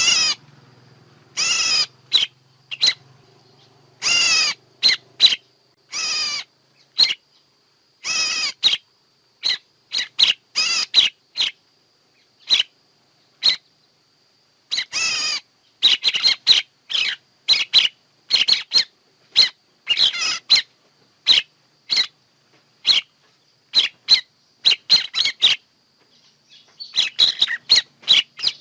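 A bird calling over and over: dozens of sharp, ringing calls, some brief and some drawn out, at an uneven pace with short silent gaps, and a faint steady high tone running underneath. It is a lure call recording of the kind played to draw birds into a trap.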